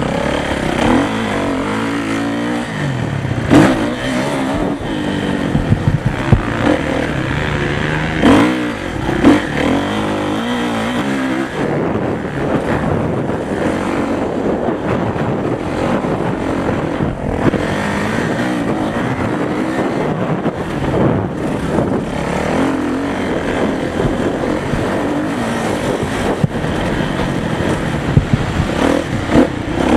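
Motocross motorcycles running on the track, engines revving up and falling back as they accelerate and change gear, with a few sudden loud thumps in the first ten seconds.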